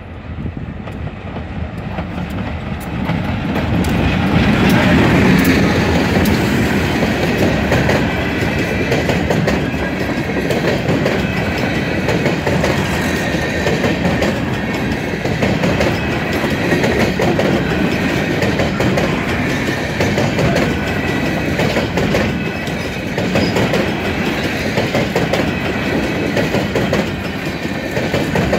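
A diesel freight locomotive draws close and passes, growing louder to a peak about five seconds in. It is followed by a long string of coal hopper cars rolling steadily by, their wheels clacking over the rail joints.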